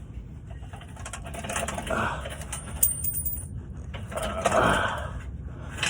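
Metal parts and tools clinking and rattling while a transmission is worked into place under a truck, with one sharp ringing metallic clank about three seconds in.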